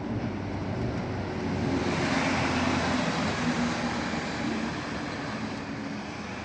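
A vehicle passes close by: a low engine hum with a rushing noise that swells to its loudest about two seconds in, then fades toward the end.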